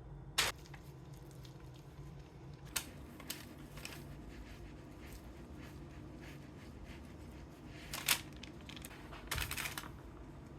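Scattered light clicks and knocks of objects being handled, a few single ones and then a quick rattle of several near the end, over a low steady hum.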